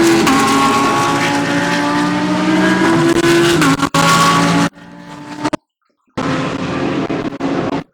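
GT3 race cars' engines running hard past the corner, several engine notes overlapping, with the pitch stepping down about three and a half seconds in. About five seconds in, the sound drops sharply and cuts out completely for about half a second, then comes back with a further brief cutout near the end.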